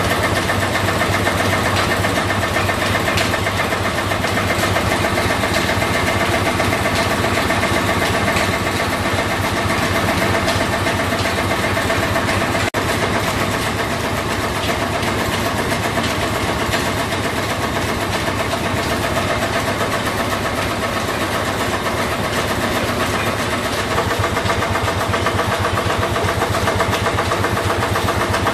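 Several stationary engines running steadily together in an engine house, a dense, even mechanical din with a fast, regular beat.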